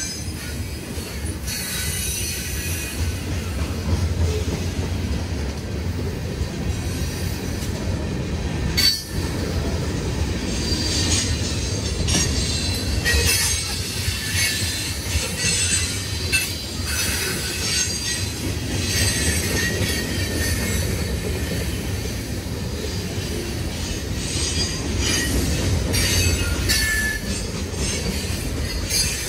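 Freight train of boxcars and tank cars rolling past at slow speed: a steady low rumble of steel wheels on rail, with intermittent high-pitched wheel squeal coming and going as the cars pass.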